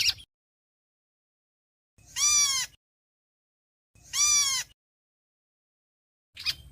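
Héc xoan bird calling its flock: three near-identical harsh, buzzy calls about two seconds apart, each under a second long, the last with a short note just before it.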